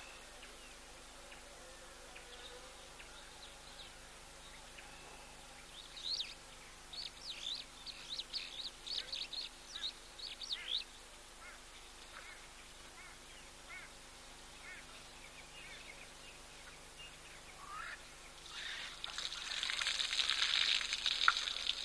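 Wild birds calling: a run of quick chirps in the middle, then a louder, denser burst of calling near the end.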